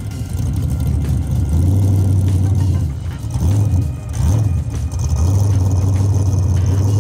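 Car engine idling with a deep, uneven beat, the rhythm breaking into a few irregular pulses about halfway through.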